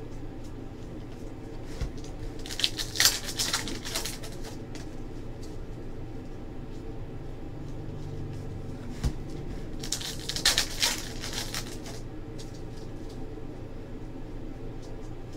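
Trading cards being handled and flipped through, with a crisp rustle and clicking in two short bursts, about three seconds in and again about ten seconds in, over a steady low hum.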